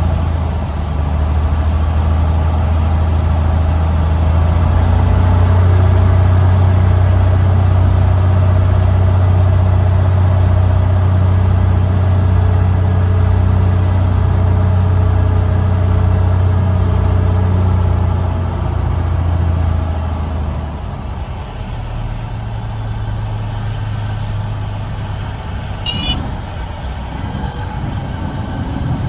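Cessna 150's engine and propeller droning steadily, heard from inside the cabin. About two-thirds of the way through, the drone drops to a lower, quieter level as power comes off. A brief high chirp follows a few seconds later.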